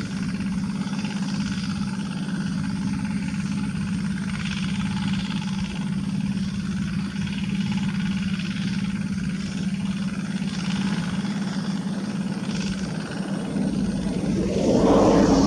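Diesel engine of a two-wheel rotary tractor running steadily under work. Near the end it grows louder for a second or so.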